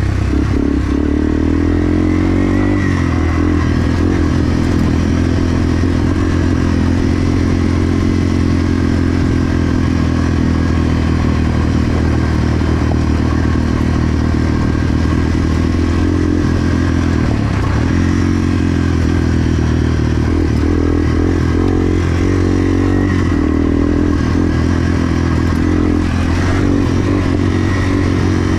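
1987 Yamaha TW200's single-cylinder four-stroke engine running at speed, its note rising and falling with the throttle and briefly dipping about two-thirds of the way through.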